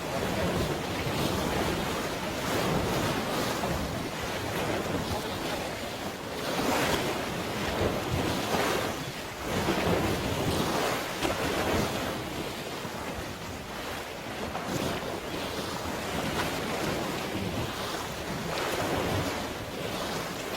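Water waves washing with wind buffeting the microphone: a steady rushing noise that swells and eases every few seconds.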